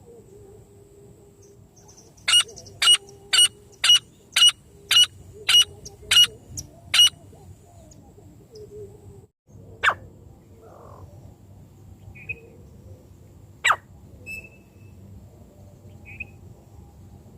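Francolin (teetar) calling: a run of about ten sharp, loud notes at roughly two a second, then single calls a few seconds apart, with faint chirps between.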